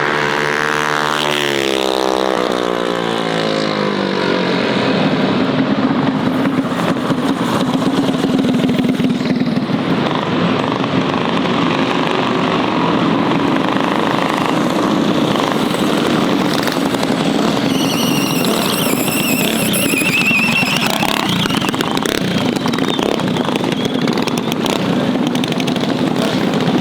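Mini bike engines revving hard and running at high speed during a drag race, the sound loud and steady throughout. A high wavering whine joins in for a few seconds about two-thirds of the way through.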